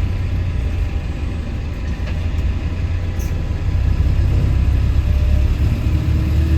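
Bus engine running, heard from on board: a steady low drone that gets louder about four seconds in.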